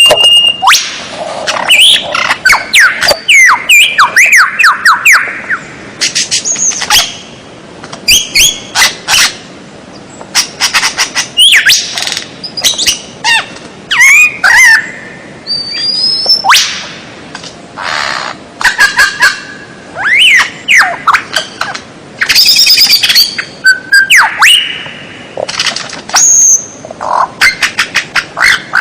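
Loud, varied songbird song from a masteran tutor recording for training caged songbirds: phrases of rapid sharp chips, rattling trills and rising and falling whistles, separated by short pauses.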